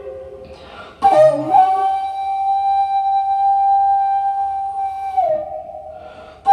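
Daegeum, the Korean large bamboo transverse flute, playing a slow improvised solo. A note fades out, then a new note starts sharply with breath noise about a second in and is held steady for about four seconds. It then bends down in pitch and fades near the end.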